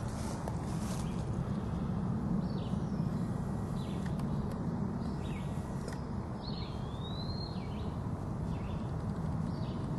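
A few songbird chirps and short whistles, one longer whistle dipping and rising about two-thirds of the way in, over a steady low rumble, with a few faint clicks near the start.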